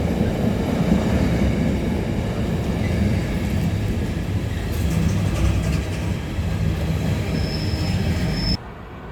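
A train running past, a steady rumble of wheels on the rails, which cuts off abruptly near the end.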